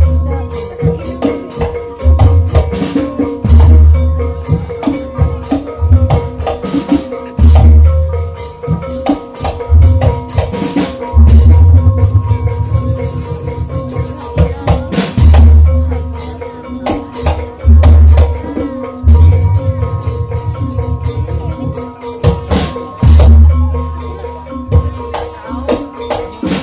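Banyumasan ebeg gamelan music: struck tuned percussion with deep, loud drum beats every one to two seconds.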